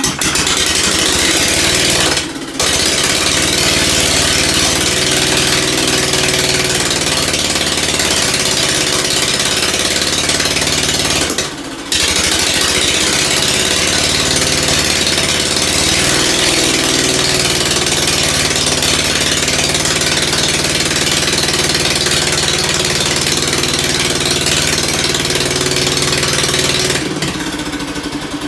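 Old Ford engine starting on choke and running loud and steady, faltering briefly twice (about two seconds in and near the middle) before picking up again, then dying down near the end. It is running after a carburettor mixture-needle adjustment, which the owner says seemed to work.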